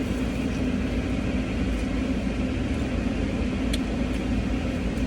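Steady low rumble and hum of a car idling, heard from inside the cabin, with one faint click a little before four seconds in.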